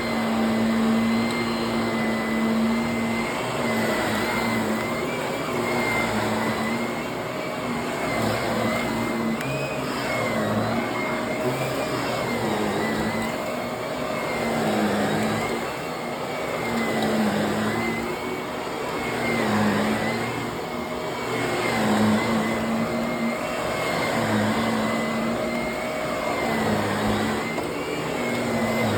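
Vacuum cleaner running steadily. Its motor hum and high whine dip and rise again every two to three seconds in a repeating pattern, as the machine is pushed back and forth.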